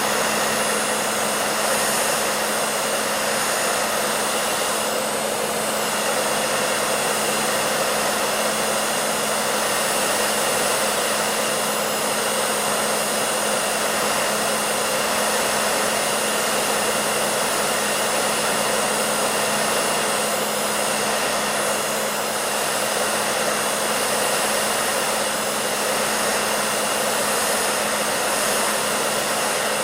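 Hair dryer running continuously: an even, unchanging rush of blown air with a steady low motor hum underneath.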